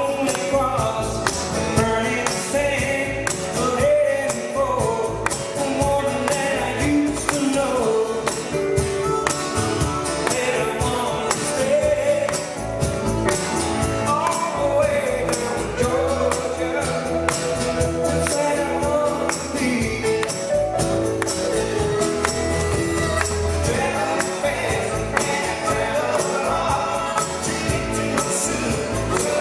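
Live band playing a pop song with a steady beat.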